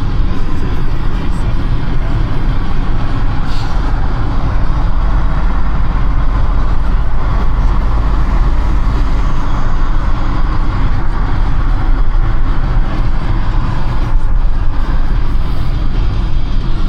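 Car driving at expressway speed: a steady, loud low rumble of tyre and engine noise with no sudden events.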